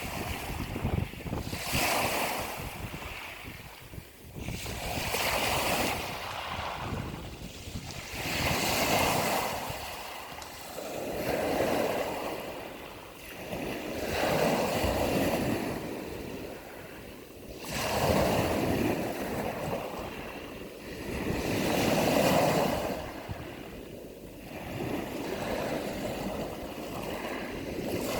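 Ocean surf: waves breaking and washing in, one surge of rushing water about every three to four seconds.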